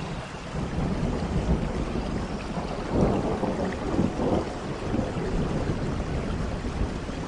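Rain falling in a forest with rolling thunder: a low rumble that builds from the start and swells around three and four seconds in.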